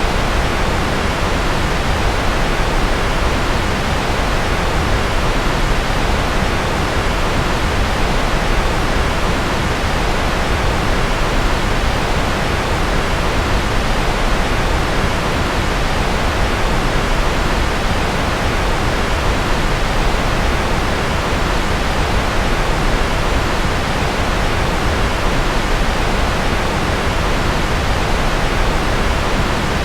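Continuous rocket-style white noise: a steady, even rush, heaviest in the low end, with no change in level or pitch.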